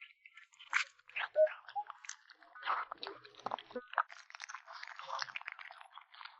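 A kitten chewing and crunching food: a quick, irregular run of wet crunches and bites, loudest about a second and a half in.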